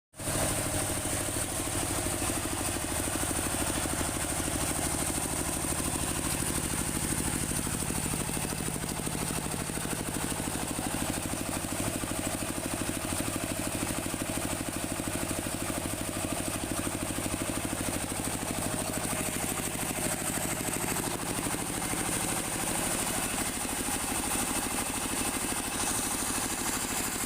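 A motor or engine running steadily at an even idle-like hum, unchanging throughout.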